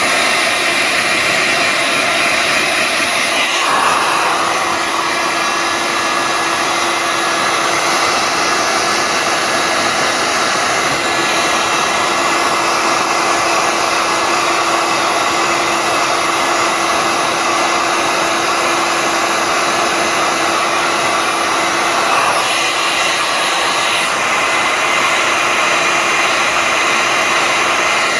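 Electric heat gun running steadily, its fan blowing hot air onto the bent edge of a car bonnet to warm the metal so it can be bent straight without cracking the paint. A low steady hum joins in about four seconds in and stops a few seconds before the end.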